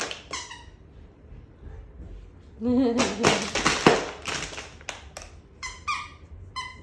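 A Beauceron working a squeaky dog toy: short high squeaks from the toy's squeaker, once at the start and three times near the end. In between, about three seconds in, comes a louder burst of thumping and rustling as the toy is tossed and chewed.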